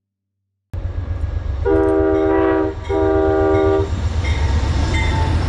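Train rumble that starts suddenly, then a multi-note train horn sounding two blasts of about a second each, close together. The rumble of the train going by carries on after the horn.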